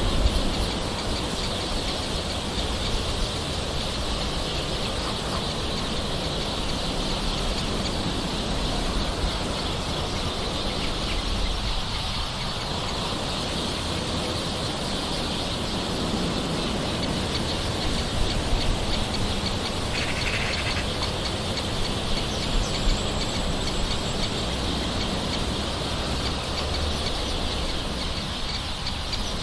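Steady hiss of soft rain, with a few brief bird calls over it, one about twenty seconds in.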